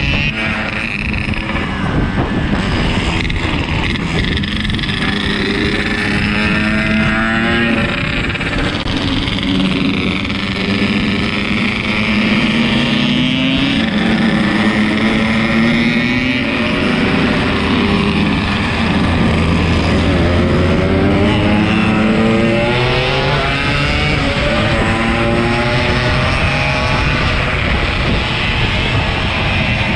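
Yamaha RX-King 135 two-stroke single-cylinder motorcycle engine running under way, its pitch climbing and dropping back again and again with throttle and gear changes.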